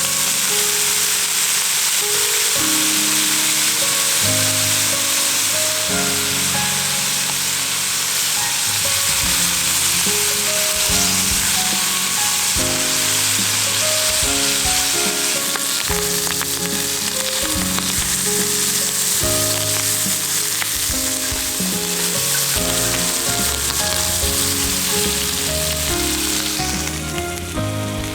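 Food frying in a pan, a steady dense sizzle, over background music; the sizzle eases near the end.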